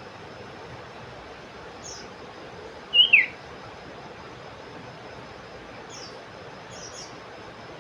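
Common iora (cipoh) calling: one loud, short, two-part downslurred call about three seconds in, with a few faint, high, quick chirps before and after, over a steady hiss.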